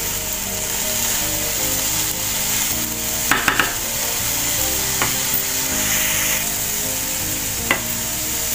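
Chopped fresh coriander sizzling steadily in a hot nonstick frying pan as a spatula stirs it, with a few sharp knocks of the spatula against the pan.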